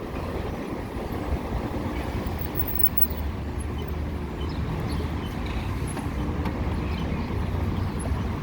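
Steady rush of wind and road noise with surrounding traffic, heard while riding.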